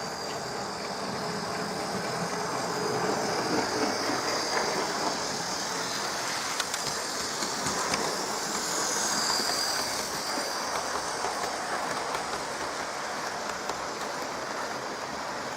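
Hornby OO-gauge Flying Scotsman model locomotive, driven by a motor in its tender, running steadily around the track at fairly high controller speed. There is a high motor whine with wheels clicking over the rail joints, swelling a little twice as the train passes closer.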